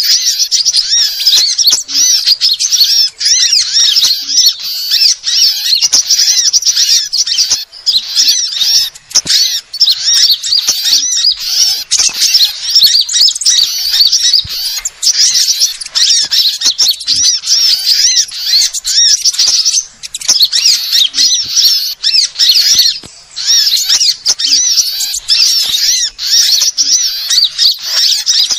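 Dense, loud twittering of small songbirds: many rapid high-pitched chirps overlapping without pause, with only brief dips. This is a bird-lure recording made to draw in sunbirds.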